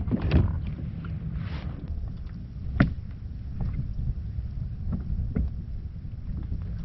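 Steady low wind rumble on the microphone, with scattered sharp knocks and clicks, the loudest nearly three seconds in.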